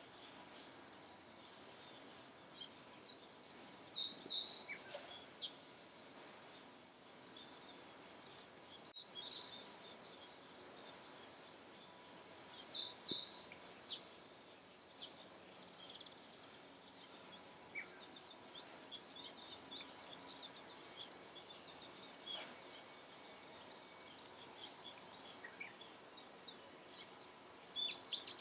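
Several wild birds singing in spring woodland, with a constant chatter of short high chirps and two louder song phrases, about four seconds in and again about thirteen seconds in.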